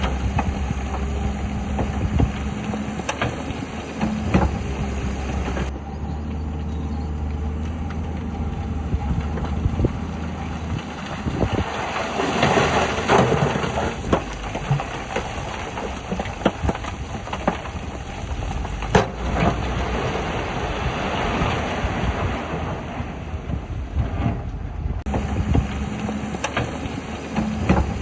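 Heavy earthmoving machinery at work: diesel engines running steadily, with scattered sharp clanks and knocks throughout and a louder, rushing swell about twelve seconds in.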